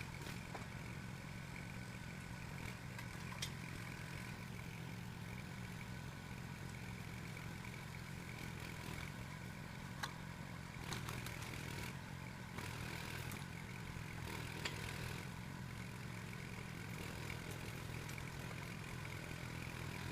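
Small engine running steadily at low throttle, most likely the one powering the log loader, with a few faint clicks and knocks.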